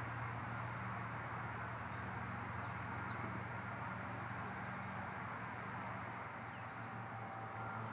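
Steady outdoor background rush with a low hum. Faint high chirps from a small bird come twice, about two seconds in and again near the end.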